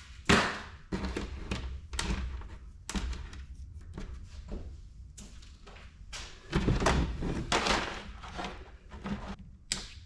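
Scrap wire and metal pieces being handled and dropped, an irregular series of knocks and clunks, the loudest just after the start and another cluster about two-thirds of the way through.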